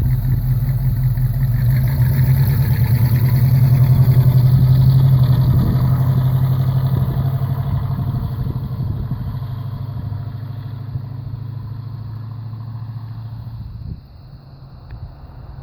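Pontiac 400 V8 of a 1969 Firebird running at a steady cruise: a steady low engine drone that builds over the first few seconds, then slowly fades and drops off suddenly near the end.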